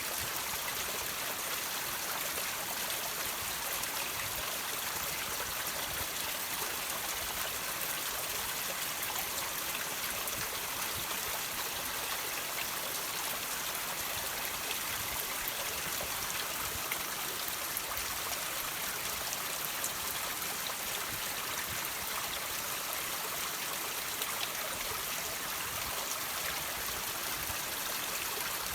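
Water dripping and trickling off rocks: a steady watery hiss with many small droplet ticks scattered through it.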